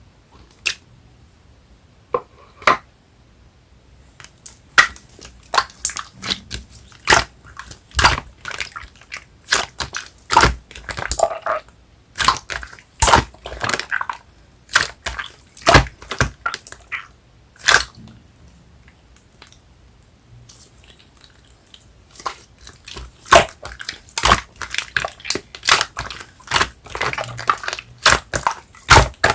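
Yellow clay slime being squeezed, poked and kneaded by hand, giving quick irregular sticky clicks and pops. A few scattered pops at first, then a dense run, a pause of a few seconds past the middle, and a dense run again near the end.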